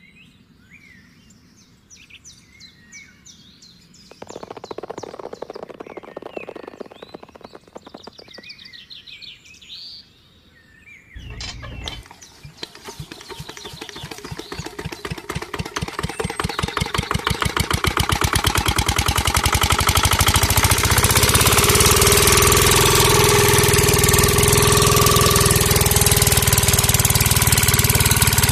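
Birds chirp faintly at first; then about twelve seconds in a small engine starts, its rapid firing rhythm speeding up and growing louder over several seconds before it settles into a steady, loud run.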